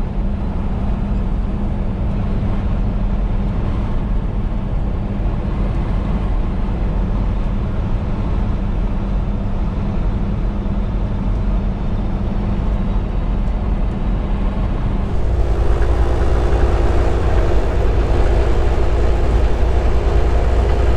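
Steady drone of a semi truck's engine and tyre noise at highway speed, heard from inside the cab. About fifteen seconds in the sound changes suddenly, growing louder and fuller with a steady hum added.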